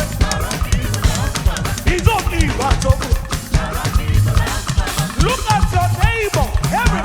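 Live gospel band music with a drum kit and bass keeping a steady beat, and a voice singing arching runs over it.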